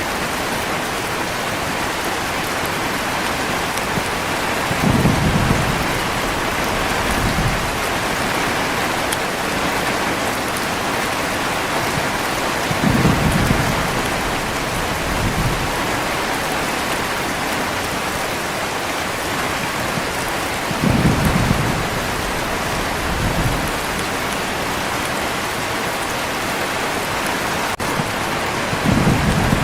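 Heavy rain falling steadily, with short low thunder rumbles that recur about every eight seconds, each followed by a fainter one.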